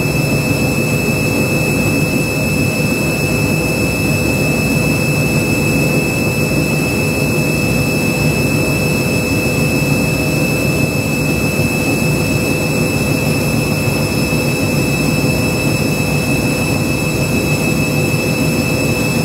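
Washing machine spinning at high speed: a steady motor whine over the rushing of the drum, holding the same speed throughout.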